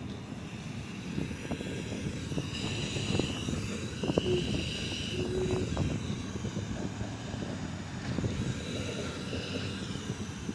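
Steady low rumble of city traffic, with a hiss from a public drinking fountain swelling and fading three times. The hiss sounds like a gas meter, which the uploader thinks could just be air being pushed through the line under pressure.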